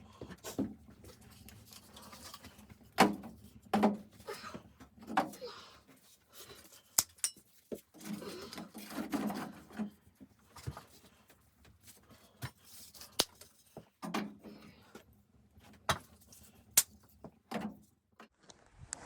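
Irregular handling sounds: sharp clicks and knocks at uneven intervals, with stretches of rustling between them.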